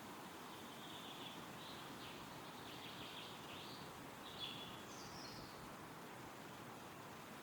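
Wind rustling steadily through forest trees, with a small bird giving a string of short, high chirps in the middle.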